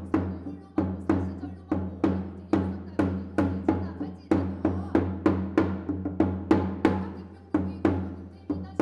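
Ritual percussion music: drum strikes in a steady beat of about two to three a second, each ringing out briefly, over a steady low hum.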